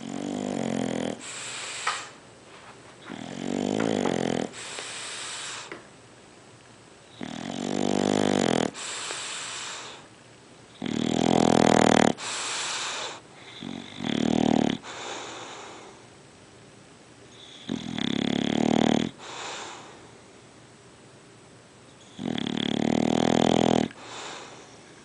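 English bulldog snoring: about seven loud pitched snores, roughly one every three to four seconds, each followed by a shorter, breathy puff of air.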